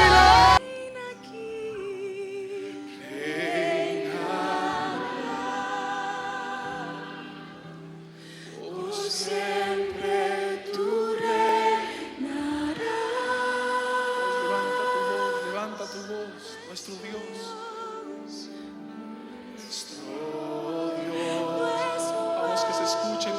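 Slow worship singing by several voices holding long, wavering notes, softer than the loud passage that stops abruptly about half a second in.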